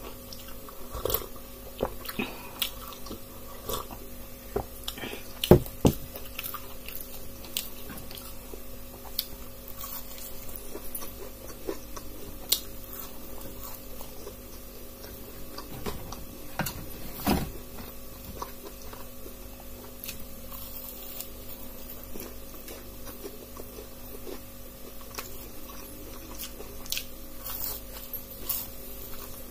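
Close-miked eating: chewing and biting into fried pakoras (gram-flour fritters), a scatter of small mouth clicks and crackles with a couple of sharper ones, over a steady background hum.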